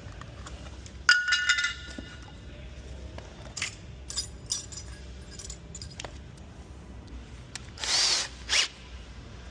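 Metal hand tools being handled and set down: a ringing metallic clink about a second in, then scattered light clicks and knocks, and a brief louder rasp near the end.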